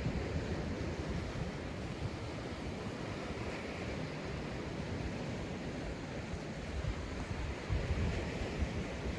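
Small waves breaking and washing up a sandy beach in a steady hush of surf, with wind buffeting the microphone in low rumbles, strongest about eight seconds in.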